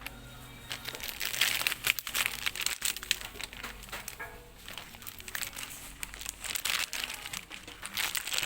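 Plastic snack packet crinkling as it is handled, in a run of quick irregular rustles that start about a second in.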